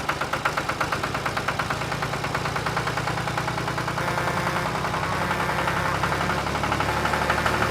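Tractor engine sound running steadily with a quick, even chug.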